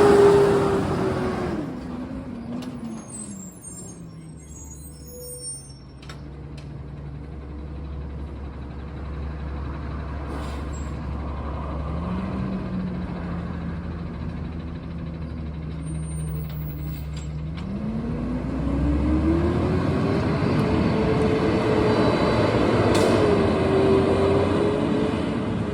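Garbage truck's diesel engine dropping from high revs to idle over the first few seconds, idling, then revving back up about 18 seconds in and holding there.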